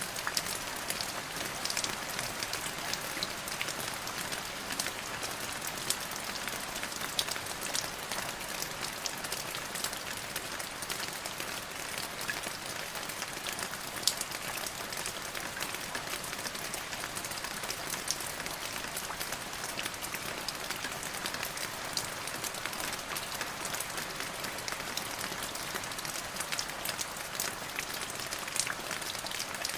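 Steady rain falling on a surface, an even hiss with many sharp individual drop impacts ticking through it.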